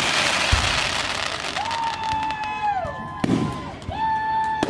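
Fireworks: a hissing rush, then two whistling fireworks, each holding one steady tone for about a second before dropping in pitch, with a sharp bang between them.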